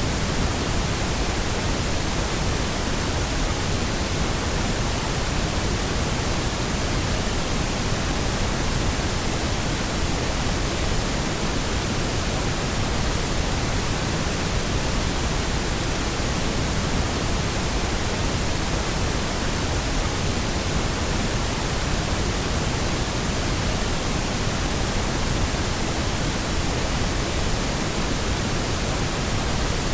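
Steady pink noise: an even, unchanging hiss spread across all pitches with no events or variation.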